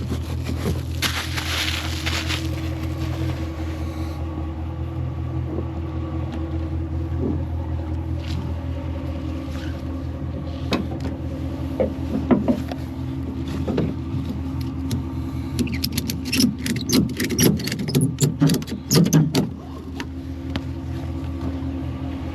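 Truck engine running steadily, with a run of knocks and sharp rattling clatter over several seconds in the second half.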